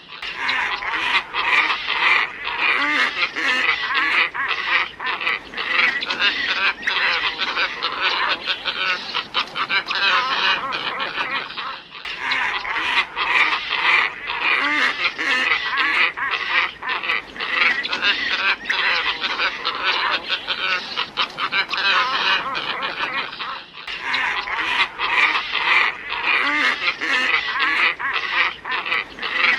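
Glossy ibis flock calling, a dense chorus of overlapping hoarse grunting calls, played as a looped bird-lure recording that restarts about every twelve seconds with a brief break at each join.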